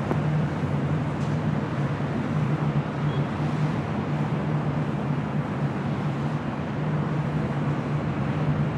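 Airbus A380 jet engines on landing, a steady rumble with a constant low hum and hiss.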